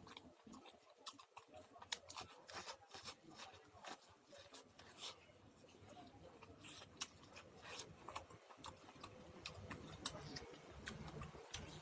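Popcorn being chewed: faint, irregular crunches, many short clicks in quick succession.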